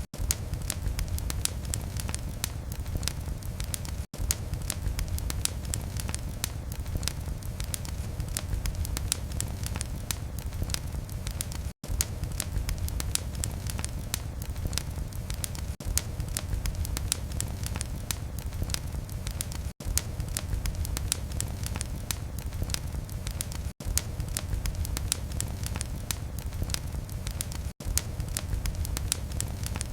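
Fire in a fireplace crackling: a steady low rumble of flames under many small, sharp pops. The sound drops out for an instant every four to eight seconds.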